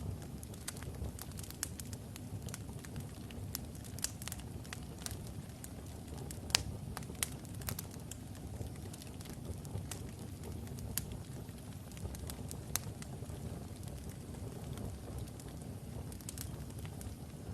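Wood logs burning in a fireplace: a steady low rumble of the flames with scattered sharp crackles and pops, the loudest pop about six and a half seconds in.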